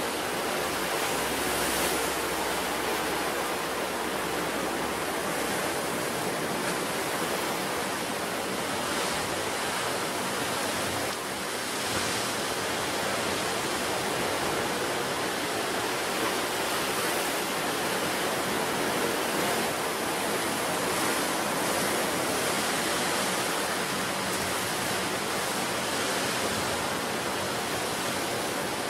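Ocean surf breaking on a rocky coast: a steady rush of churning water that swells a little now and then.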